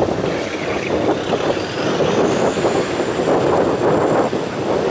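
Off-road 4x4 engine running under load on the competition course, a loud, rough, steady noise, with a faint high whine rising about a second and a half in.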